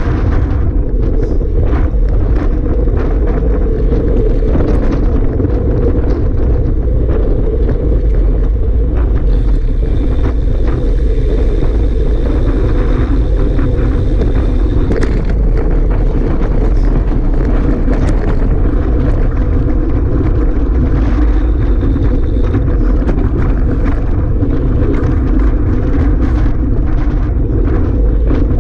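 Strong wind buffeting the microphone: a loud, steady low rumble, with a faint high steady tone for a few seconds near the middle.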